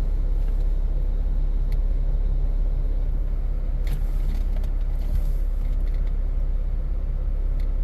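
Jeep engine idling with a steady low rumble, with a few faint clicks over it.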